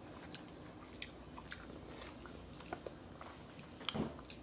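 Faint eating sounds from seafood boil: scattered small wet clicks and smacks of chewing, with a louder click near the end.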